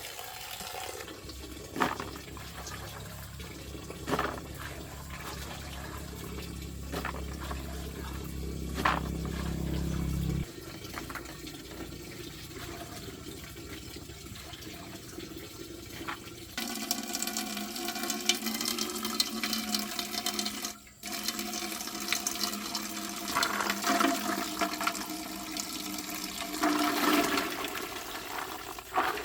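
Water running and splashing, with a few sharp knocks. A low steady hum under it stops about ten seconds in.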